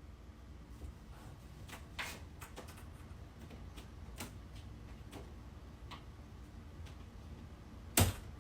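Faint, scattered short clicks and ticks over a low steady hum, with one louder click near the end.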